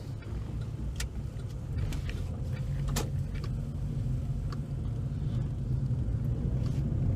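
Car running, heard from inside the cabin: a steady low engine and road rumble that grows slightly louder, with a few faint clicks.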